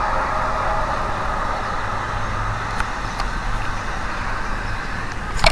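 Unidentified, really loud, steady outdoor drone: a low hum under a noisy rumble, with a few held mid-pitched tones that fade during the first second. One of the mysterious 'strange sounds' whose source the recorder could not place. A short sharp crackle comes just before the end.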